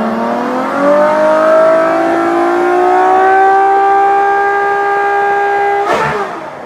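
Ferrari LaFerrari Aperta's V12 engine revved in neutral: the pitch climbs smoothly over the first few seconds, then is held steady at high revs to clear the engine out after slow driving. It breaks off abruptly near the end.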